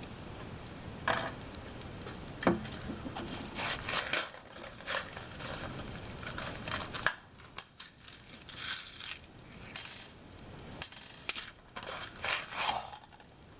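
Irregular clicks, knocks and short scrapes of small hard parts being handled while 3D-printed plastic pieces are assembled with screws, with sharper knocks about a second in, near two and a half seconds and around seven seconds.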